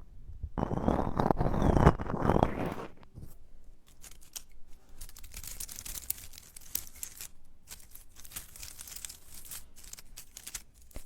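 Dry crinkling and crackling of dried plant material handled close to the microphone for ASMR, louder for the first three seconds and then finer and fainter.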